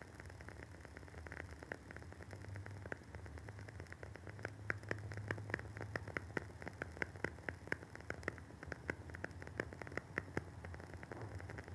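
Wooden wick of a WoodWick candle crackling as it burns: a quick, irregular scatter of small pops, busiest through the middle.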